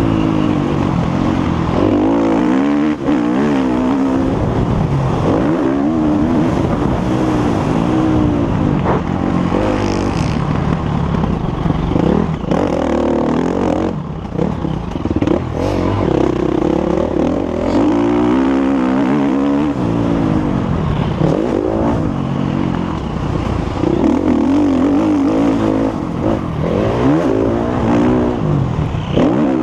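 Motocross bike engine revving hard, its pitch climbing and dropping again and again as the throttle opens and closes, with clattering from the bike over rough ground.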